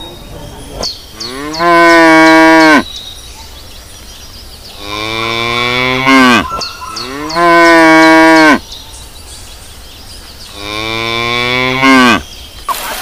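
Cows mooing: four long moos, each held steady and then dropping in pitch as it ends.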